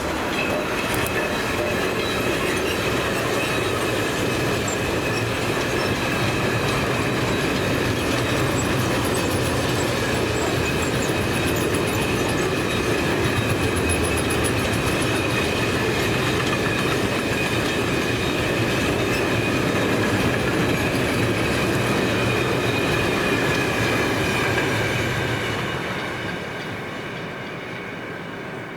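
A train passing at close range: steady rolling noise of wheels on rail with a steady high-pitched squeal over it. It sets in abruptly and fades away near the end.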